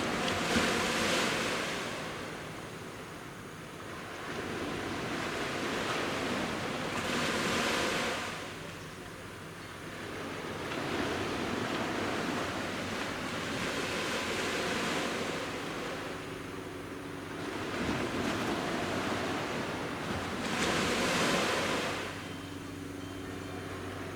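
Sea waves breaking on a beach and washing back, in slow swells of surf noise, loudest about a second in, around seven seconds in and again around twenty-one seconds in.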